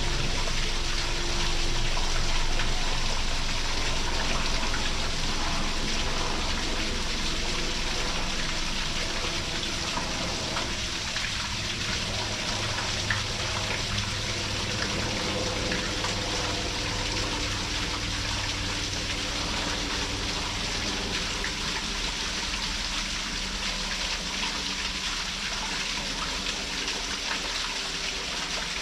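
Waterfall pouring steadily, a constant even rush of falling water. Faint low humming tones run underneath through the middle stretch.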